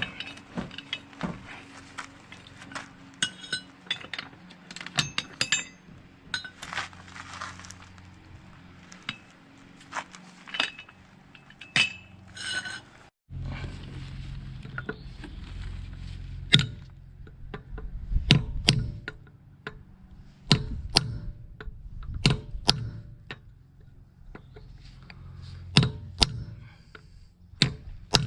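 Hand tools working on a car's driveshaft nut: many irregular sharp clicks and knocks of metal on metal. About 13 seconds in there is a short break, after which a steady low hum runs under the clicks.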